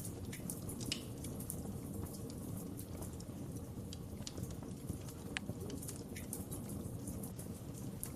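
Wood fire in a fireplace crackling: irregular sharp pops and snaps over a steady low rumble of the burning, with a louder pop about five seconds in.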